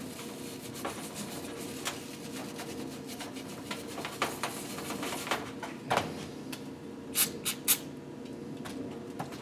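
Light clicks and taps of engine parts being handled, with three quick rubbing or scraping strokes about seven seconds in, over a steady low hum.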